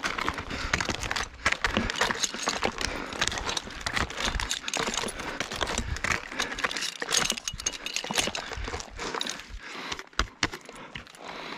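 Tree climber ascending a white pine: an irregular run of clinks and rattles of metal climbing hardware, with scraping and rustling against the bark and branches.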